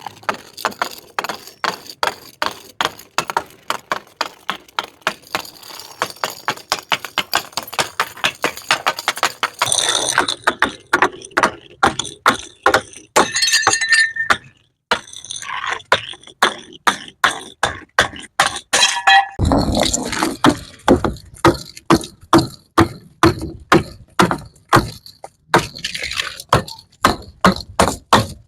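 Bottles crashing and clinking in a fast run of sharp impacts, about two or three a second, some with a bright ringing tail like breaking glass.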